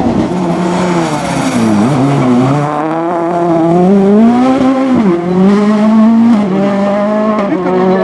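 Rally car engine revving hard, its pitch climbing and then dropping sharply three times, about two, five and seven and a half seconds in, as it shifts and lifts off.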